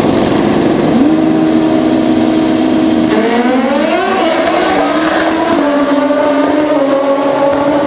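Pro Street drag-racing motorcycle engines running loud. The pitch steps up about a second in, rises and falls around the middle, then holds steady.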